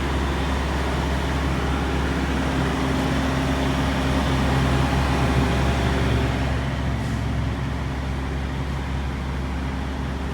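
Road traffic, with a motor vehicle passing and loudest about five seconds in over a steady low engine hum.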